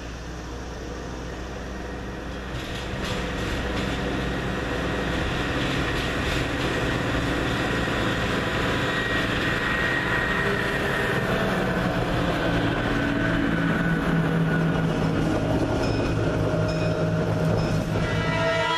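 Diesel-hauled passenger train passing close by: the locomotive's diesel engine running steadily under the rumble of the steel wheels on the rails, the sound growing louder about three seconds in as the train nears.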